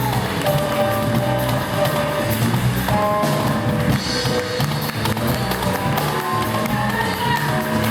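Live band music: sustained pitched instrument lines over a bass line, with busy percussion hits throughout.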